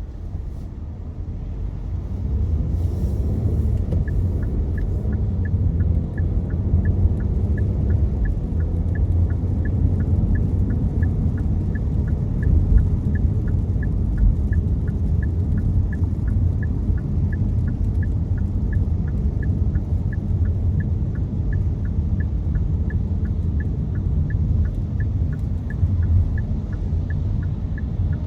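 Low road and engine rumble of a car driving in the rain, heard inside the cabin. From about four seconds in, a steady, evenly spaced ticking at one pitch, like a car's turn-signal indicator, runs alongside it.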